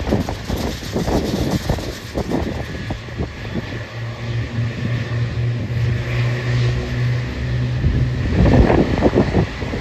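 Wind buffeting the microphone in gusts. It eases for a few seconds in the middle, where a steady low aircraft engine hum comes through, and the buffeting picks up again near the end.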